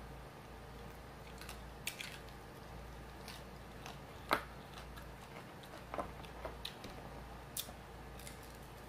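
Close-miked chewing and biting on chicken wings: scattered short clicks and smacks from mouth and fingers, the sharpest about four seconds in.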